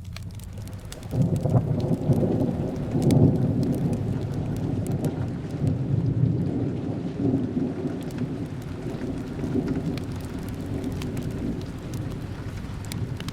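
Steady rain with a long roll of thunder that breaks in suddenly about a second in, is loudest over the next few seconds and slowly rumbles away. Sharp crackles of a wood fire are scattered throughout.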